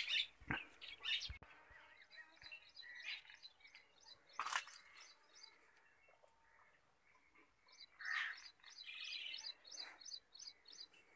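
Birds chirping in quick series of short high notes, with a few knocks in the first second or so and a single sharp click about four and a half seconds in.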